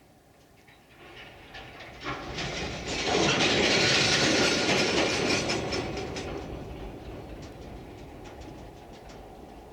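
Freight train hauled by a 2M62 diesel locomotive passing close by, its wheels clattering over the rail joints. It swells in about a second in, is loudest a few seconds in, then slowly fades as it moves away.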